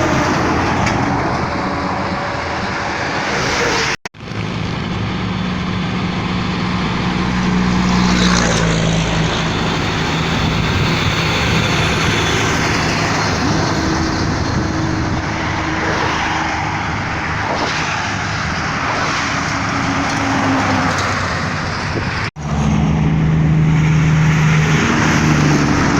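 Heavy tractor-trailer truck engines running with road noise, heard as three separate clips that break off abruptly about four seconds in and again near the end.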